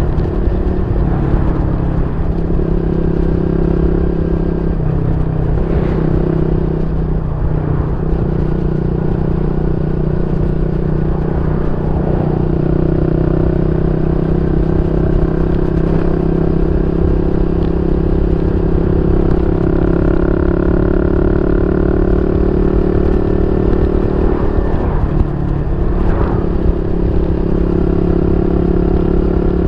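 Yamaha Y15ZR's 150cc single-cylinder four-stroke engine running through an aftermarket YYPANG SD3 exhaust, holding a steady note with small shifts in pitch.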